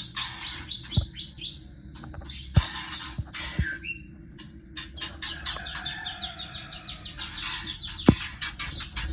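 White-rumped shama chicks calling: rapid runs of short, high, downward chirps several a second, broken by harsh hissing bursts. A few sharp knocks stand out, the loudest about two and a half seconds in and near the end.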